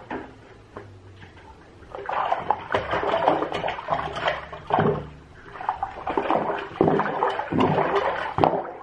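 Water running and splashing in a bathtub, starting about two seconds in and going on unevenly with sharp splashes.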